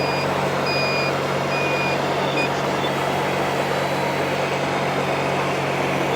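An RC model truck's sound module playing a steady diesel-engine hum with a reversing beeper, short high beeps a little under a second apart that stop about two and a half seconds in.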